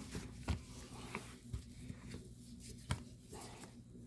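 Faint scraping with a few light taps as dried bird droppings are picked off a cage part with a fingernail.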